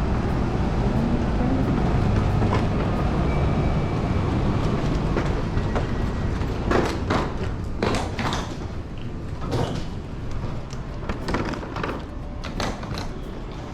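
A steady low rumble, like a moving vehicle heard from inside, with a run of clattering knocks and thuds about halfway through.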